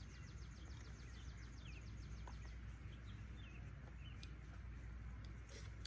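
Quiet outdoor ambience of birds: a rapid, even, high ticking trill of about seven notes a second that stops about two and a half seconds in, and a few short chirps. Near the end comes a brief high rasp.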